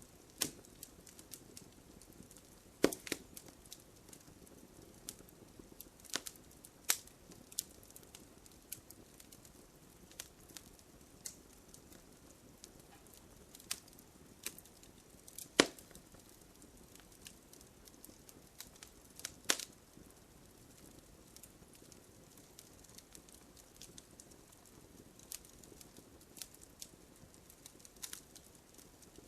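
Wood campfire crackling: a scatter of small irregular ticks and pops over a faint steady hiss, with a few sharper, louder snaps, the loudest about sixteen seconds in.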